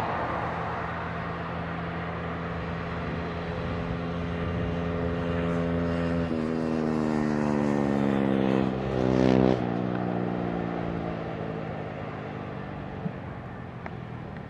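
Airbus A320neo's CFM LEAP-1A turbofans passing close by: a steady jet drone whose whining tones fall in pitch from about six seconds in. It is loudest about nine seconds in, then fades away.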